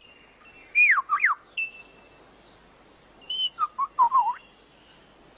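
Superb lyrebird singing: two phrases of clear whistled notes that sweep down and up, one about a second in and another near four seconds.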